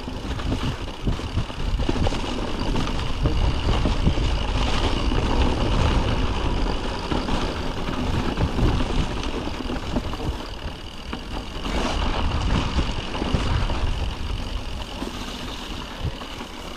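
Mountain bike rolling over a snowy trail: a steady rumble of wind and tyre noise on the camera's microphone, with scattered knocks and rattles from the bike over bumps.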